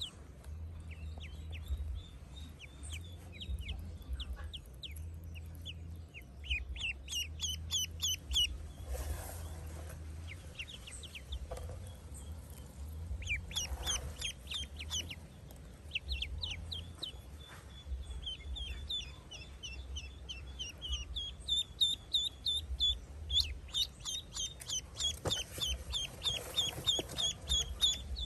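Ducklings peeping: runs of short, high peeps come and go, then turn into a dense, steady series in the last third. A low steady hum lies underneath.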